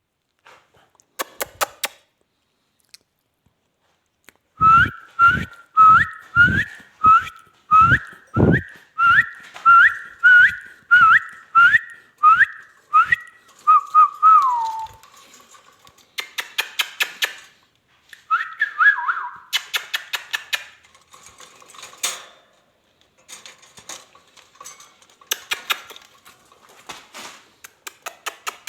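Indian ringneck parakeet whistling a quick string of short rising notes, then one falling note. After that comes a stretch of harsh, scratchy chattering calls.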